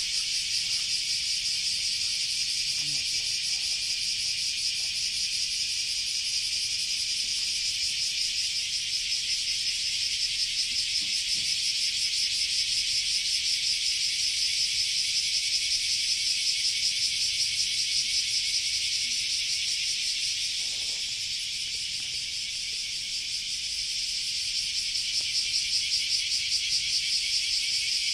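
A steady chorus of insects: a continuous high-pitched, rapidly pulsing trill that dips slightly in loudness about two-thirds of the way through.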